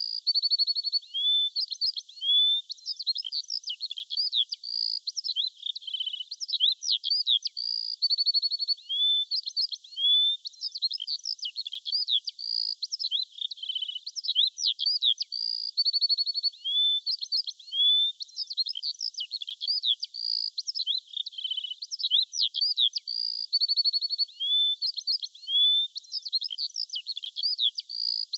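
Birdsong: high-pitched chirps, quick up-and-down whistles and short buzzy trills, sung in phrases that repeat every few seconds without a break.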